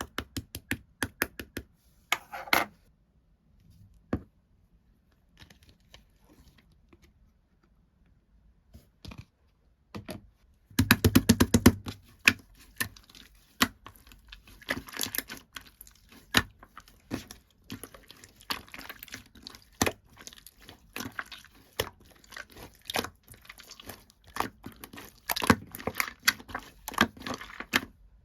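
Two-layer slime being squished and stretched by hand, making sticky clicks, pops and crackles. The clicks are sparse for the first ten seconds, then a louder burst about eleven seconds in leads into dense, steady crackling and popping.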